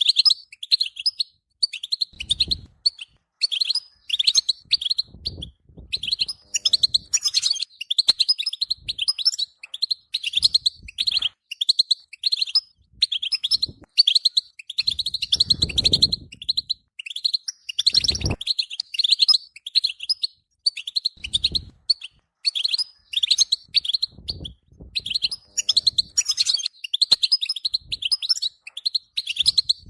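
European goldfinch singing: a fast, unbroken twittering song of quick notes and trills. A few dull low thumps sound under it, the largest about halfway through.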